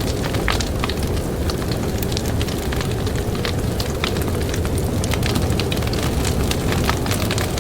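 Campfire crackling with many sharp, irregular pops, over a steady low rumble of blizzard wind.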